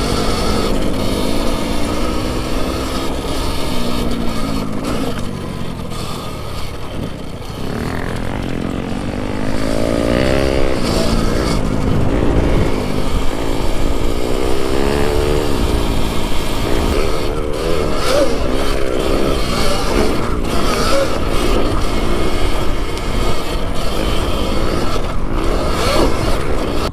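Dirt bike engine revving up and down while riding a trail, over steady wind and riding noise.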